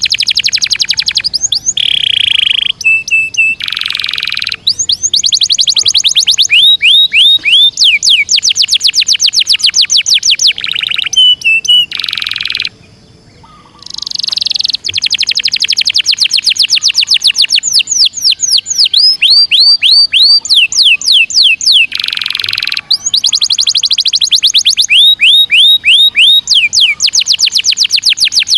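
Domestic canary singing continuously in long rolling trills: rapid runs of repeated sweeping notes, broken now and then by short buzzy notes, with a pause of about a second about halfway through.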